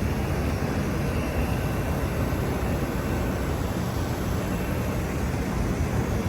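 Carrier Infinity Greenspeed heat pump outdoor units running: a steady rush of fan and compressor noise, heaviest in the low end, with a faint steady whine above it.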